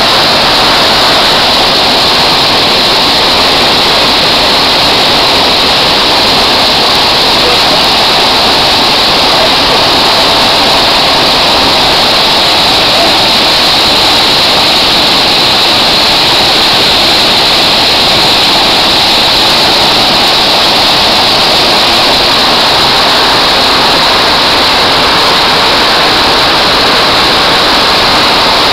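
Waterfall: water falling and splashing in a loud, steady rush that does not change.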